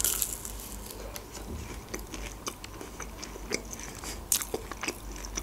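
A person biting into a fried chicken nugget, close to the microphone: a crisp bite at the start, then chewing with many small crackles and clicks.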